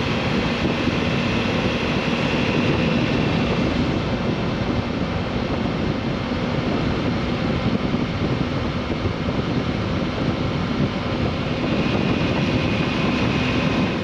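Suzuki V-Strom motorcycle's V-twin engine running at a steady cruising speed, with heavy wind rush over the microphone.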